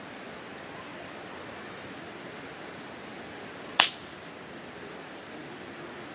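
Wood campfire burning with a steady hiss, and one loud, sharp pop of burning wood a little under four seconds in.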